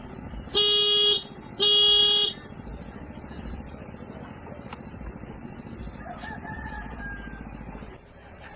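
A vehicle horn sounding twice: two short, loud blasts at one steady pitch, about a second apart, near the start.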